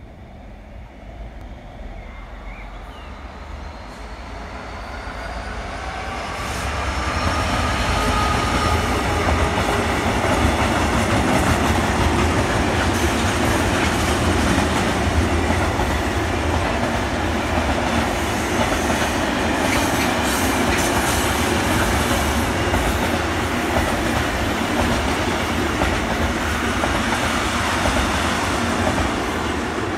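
Diesel-hauled freight train of flat wagons loaded with pipes passing close by. The locomotive's engine grows louder over the first seven seconds or so, then a long steady rumble and clatter of wagon wheels on the rails, fading near the end.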